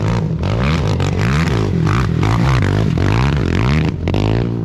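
Off-road racing motorcycle engine revving up and down in quick swings of pitch, the throttle opening and closing as the bike passes.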